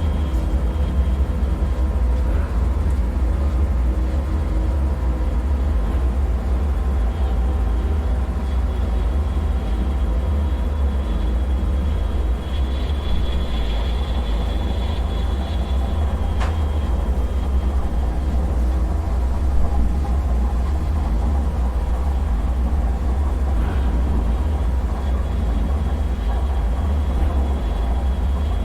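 Dark ambient bunker soundscape: a steady, deep rumbling drone with faint humming tones above it and one faint short tick about sixteen seconds in.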